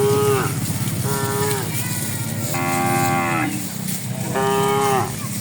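Domestic cattle mooing: four separate moos about a second apart, the third one deeper and longer than the others.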